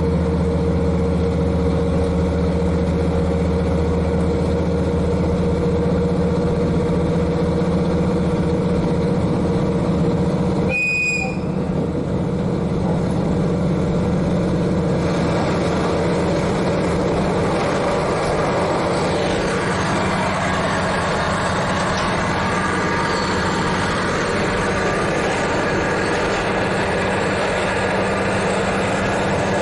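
A KiHa 40 diesel railcar's N-DMF13HZI diesel engine, heard from directly above it, running steadily under way together with wheel and rail noise. About eleven seconds in the sound dips briefly with a short sharp click, then the engine carries on with a changed tone and more rail noise.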